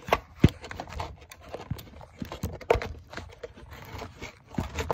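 Handling noise from a phone being moved and propped up: irregular knocks, taps and scraping, the sharpest knocks about half a second in and again near three seconds.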